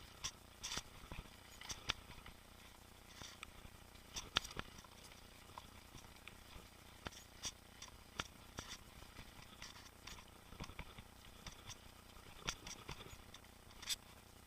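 Irregular light clicks and rattles from a mountain bike riding over a rough trail, a few sharp ticks every second or so with a faint hiss underneath.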